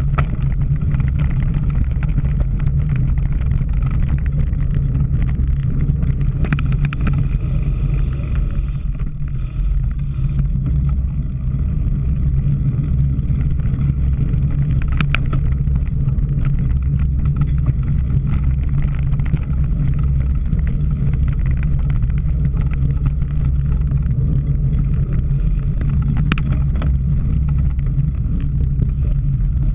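Steady low rumble of wind buffeting the microphone and bicycle riding noise during a cyclocross race, with a few sharp clicks or knocks, the clearest about 15 and 26 seconds in.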